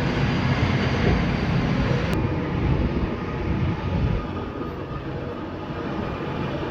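Steady low rumble of a heavy engine running, with a change in the sound about two seconds in and a quieter stretch from about four seconds.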